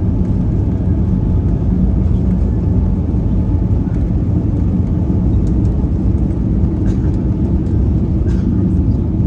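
Steady low rumble of an Airbus A320neo's engines and airflow heard inside the cabin during takeoff, with a faint steady hum and a few faint clicks in the second half.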